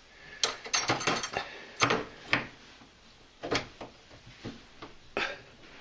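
A door handle being pushed and knocked onto its lockset, with a dozen or so irregular sharp clicks and knocks, trying to make it snap into place. It does not catch.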